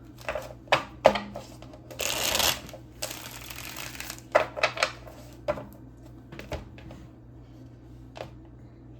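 A tarot deck being shuffled by hand: scattered card taps and flicks, with a loud rustling burst about two seconds in and a longer, softer rustle right after it.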